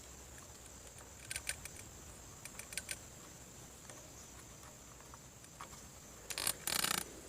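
Faint scattered clicks and light rattling of small parts being handled as the alternator brushes are refitted, with a louder scraping rattle near the end.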